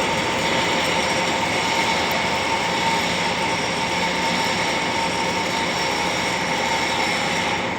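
Lathe running with the cutting tool turning a shaft: a steady hiss of cutting with a constant machine whine. The upper hiss eases off right at the end.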